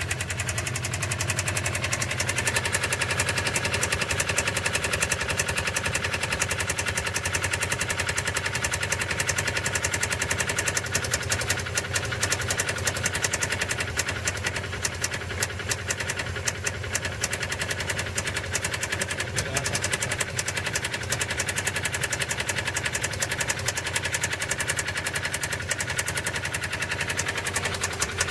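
Subaru Impreza STI turbocharged flat-four boxer engine idling with a fast, regular knock from inside the engine: the engine knock the car is being run to show.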